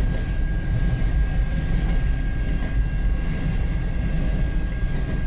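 Long freight train of empty autorack car haulers rolling past, a steady heavy rumble of wheels on rail with a thin steady whine above it.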